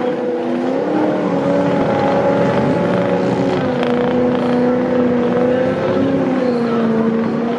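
Lifted 4x4 mud truck's engine running hard at high revs, its pitch holding steady with small rises and dips.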